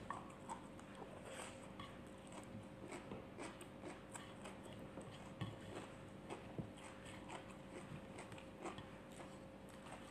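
A person chewing raw leafy plants close to the microphone: soft irregular crunches, mouth clicks and smacks, some of them a little louder, over a faint steady hum.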